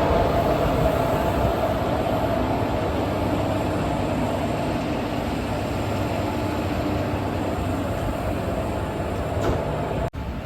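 A railway train running, a steady rumbling noise with a faint hum, which drops out briefly near the end.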